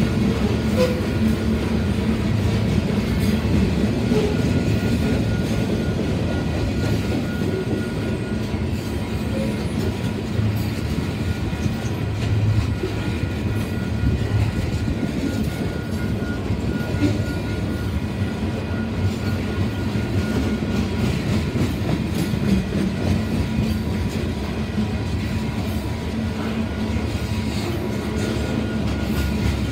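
Freight train cars rolling past close by: a steady, continuous rumble of steel wheels on rail with clickety-clack from the rail joints.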